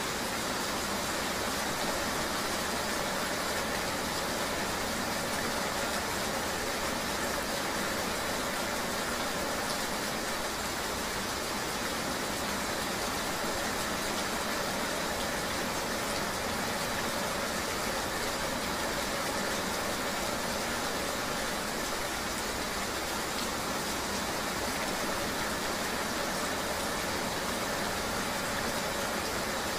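Steady ambience of rain mixed with a running vehicle's engine and road noise: an even, unbroken wash of noise with no separate events.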